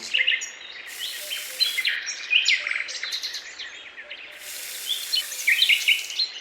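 Small birds chirping and twittering, many short quick calls overlapping, over a faint steady hiss.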